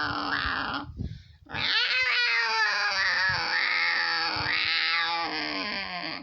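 Domestic cat yowling in anger at having her belly touched. One drawn-out call breaks off about a second in, then after a short pause a long wavering yowl follows and cuts off suddenly near the end.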